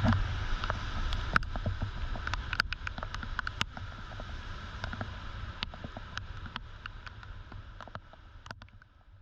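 Typhoon rain and gusty wind, a steady rushing noise with a low rumble on the microphone and many sharp ticks of raindrops striking close by, gradually fading away.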